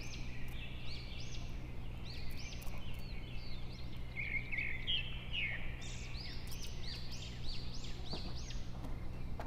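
Small birds chirping and twittering in quick repeated notes, over a steady low hum.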